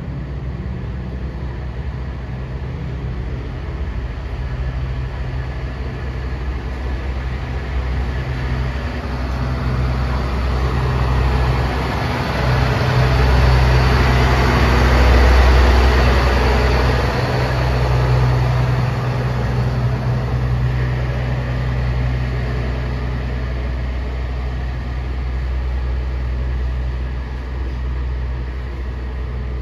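Diesel train passing by: a low engine throb and the rumble of wheels on rails build to a peak about halfway through, then fade.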